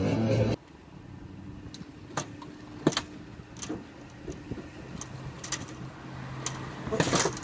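A car running, with a steady low hum and scattered light clicks and knocks, after music cuts off abruptly about half a second in. The clicks and knocks grow busier near the end.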